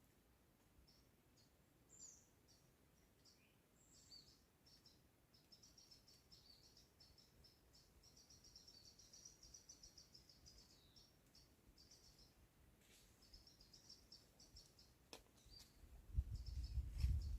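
Songbirds chirping faintly, with long runs of rapid high twittering notes in the middle. Near the end a loud low rumble comes in.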